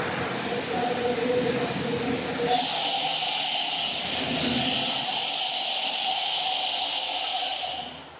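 Self-service car wash high-pressure wand spraying its soap cycle: a steady hiss over a faint pump hum, turning sharply harsher and louder about two and a half seconds in, then cutting off suddenly near the end.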